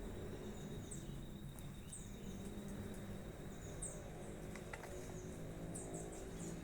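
Birds chirping: short, high, downward-sliding chirps repeating every second or two, with a thin steady high tone and a low steady rumble of outdoor ambience beneath.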